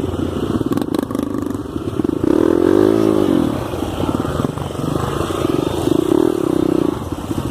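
Off-road trail motorcycle engine running hard under load, its pitch rising and falling once as it revs up and back about two to three seconds in, then surging again near the end.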